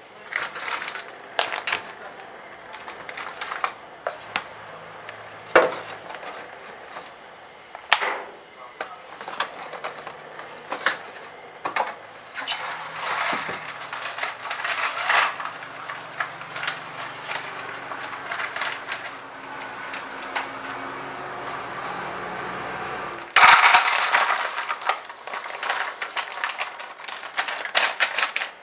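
Close handling noises: irregular clicks, knocks and crinkling, with a louder stretch of crackling rustle near the end.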